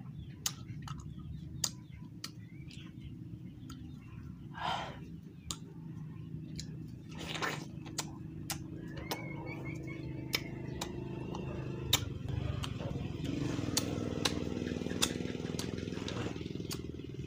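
Watermelon being bitten and chewed close to the microphone: many short wet crunching clicks, with a couple of longer slurps, over a steady low hum.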